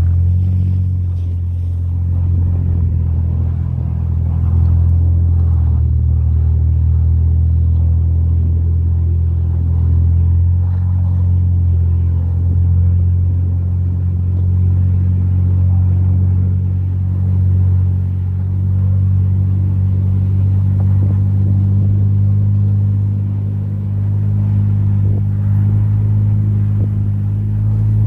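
Van engine running steadily with a low hum while driving, swelling and easing a little in loudness.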